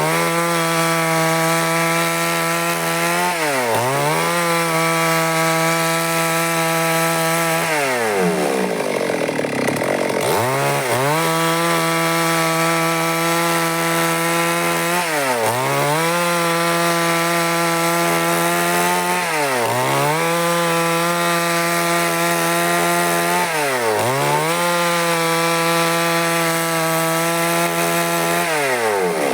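Stihl MS 382 two-stroke chainsaw running at high revs while sawing wood. Its pitch drops sharply and climbs back about every four seconds, with one longer dip about a third of the way through.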